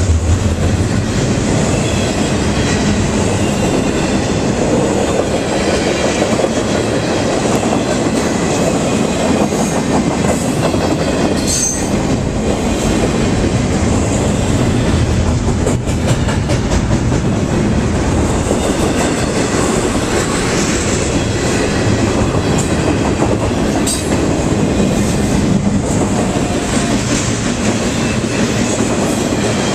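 Intermodal freight train's loaded well cars rolling past at speed: a loud, steady rumble of steel wheels on rail with a few sharper clacks.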